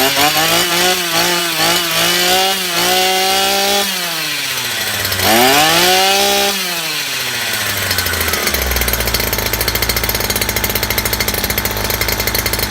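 Stihl FS240 brush cutter's two-stroke engine running well. The throttle is blipped, held at high revs twice with a drop back in between, then the engine settles to a steady idle for the last few seconds.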